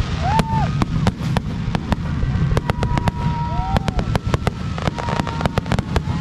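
Fireworks display going off in a dense run of bangs and crackles over a steady low rumble, with short whistling tones that rise and fall over the top.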